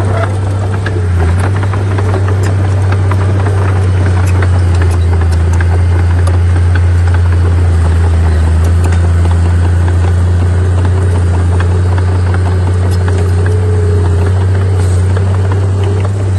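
Heavy earthmoving machinery, a bulldozer or dump truck, with its diesel engine running steadily as a low, even hum and many scattered small metallic clanks and rattles.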